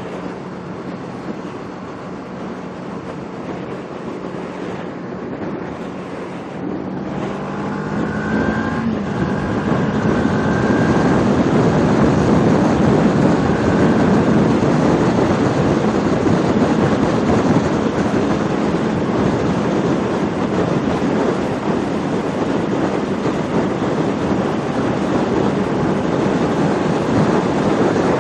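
Kawasaki Ninja 650R's parallel-twin engine running at a steady pitch, then from about seven seconds in the bike speeds up and the rush of wind over the microphone grows louder and stays loud, covering the engine.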